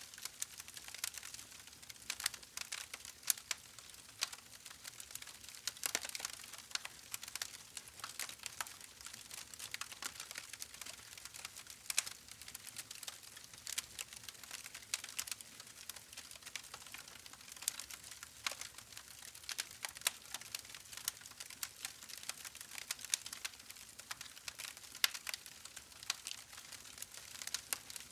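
Fire crackling in a fireplace: irregular sharp pops and snaps, a few a second, over a soft steady hiss.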